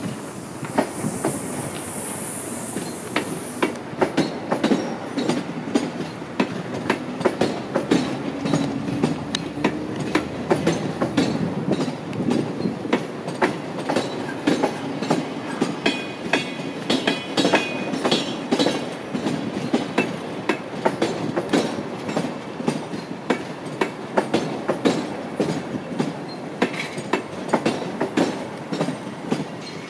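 Long electric passenger train passing, a steady rumble with rapid, regular clickety-clack of its wheels over the rail joints. A high hiss sounds for the first few seconds.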